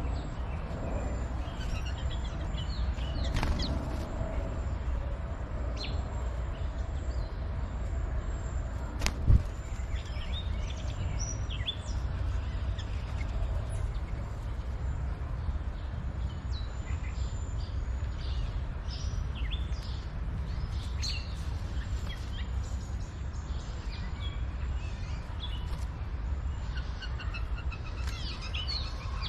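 Small birds chirping and calling in short, repeated notes over a steady low background rumble, with one sharp knock about nine seconds in.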